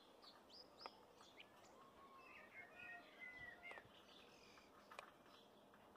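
Faint chirps and short whistled calls of birds, scattered through near-silent room tone, with two faint clicks, one about a second in and one near the end.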